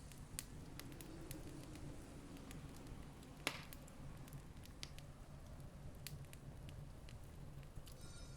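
Campfire crackling faintly, with scattered sharp pops and one louder snap about three and a half seconds in, over a steady low rumble.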